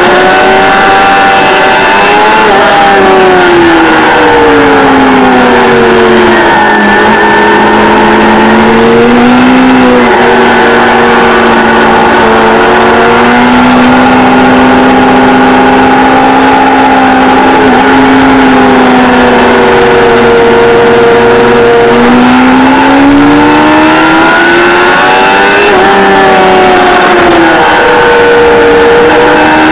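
Kawasaki ZXR400's inline-four engine, loud and ridden hard, its pitch dropping twice as it slows and climbing again as it accelerates back up through the revs.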